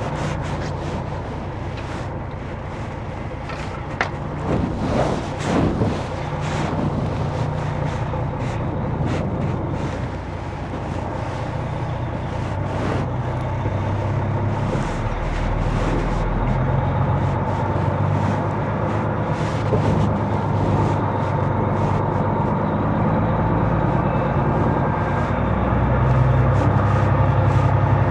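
Semi truck's diesel engine running at low speed as the truck pulls through a tight turn, growing louder in the second half. A few sharp knocks come about four to six seconds in.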